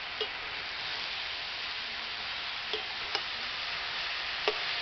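Chopped water spinach sizzling in hot oil in a kadai while it is stirred with a spatula, a steady hiss with four short clicks of the spatula against the pan.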